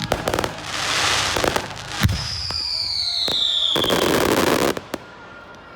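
Fireworks going off: crackling pops, a sharp bang about two seconds in, then a whistle falling in pitch and a hissing rush that cuts off suddenly near the end.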